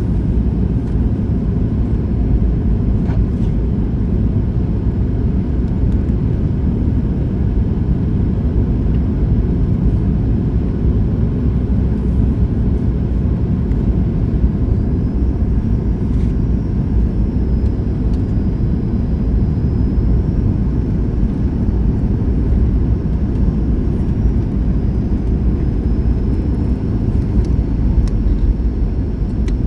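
Steady low rumble inside the cabin of a Boeing 737-800 on approach: CFM56-7B engines and airflow. A faint high whine joins about halfway through.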